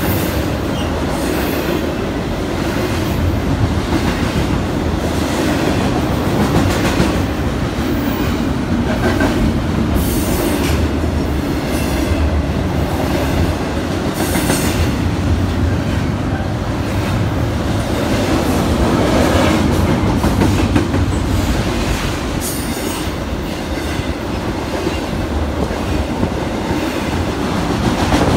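BNSF intermodal freight train's double-stack container and trailer cars rolling past at close range: a steady, loud rumble of steel wheels on rail, with sharp clanks every few seconds.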